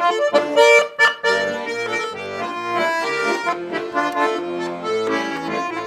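Russian button accordion playing an instrumental interlude between sung verses of a folk song: a lively melody over bass and chord accompaniment.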